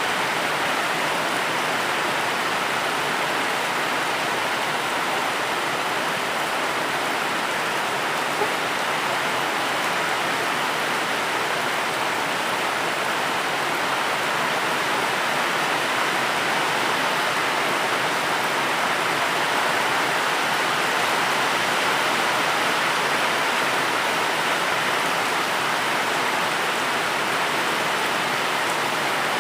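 Steady, even rain, a dense continuous hiss without distinct drops or changes.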